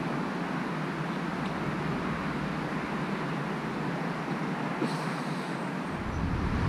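Steady rushing wind noise, with a low rumble of wind buffeting the microphone coming in near the end.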